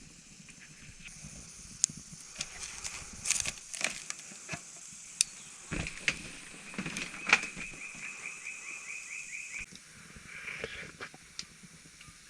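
Scattered sharp clicks and knocks. From about halfway through, a small animal calls for several seconds with a fast, evenly pulsed, high trill.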